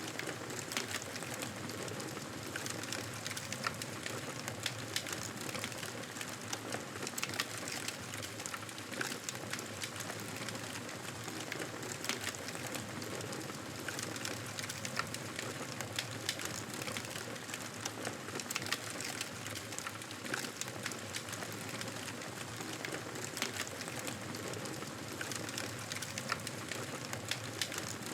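Wood fire burning: a steady low hiss with frequent sharp crackles and pops.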